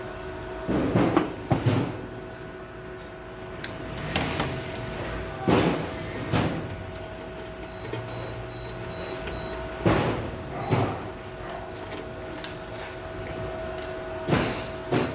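Short clunks and rattles, mostly in pairs, from handling a wire spool and the wire compartment of a mini MIG welder, over a steady low hum.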